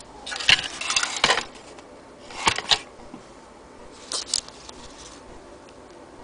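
Handling noises around a clock movement: three bursts of clicking and rattling, the first and longest starting just after the beginning, the others about two and four seconds in.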